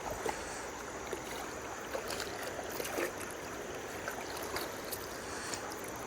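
River water running steadily, with a few faint small clicks.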